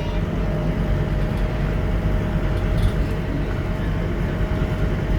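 Scania K230UB single-deck bus's diesel engine running, a steady low drone with a thin steady whine over it.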